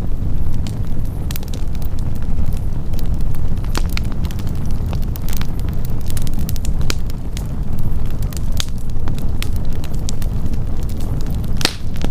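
Wood campfire of burning logs crackling, with frequent sharp pops over a steady low rumble; one louder pop comes near the end.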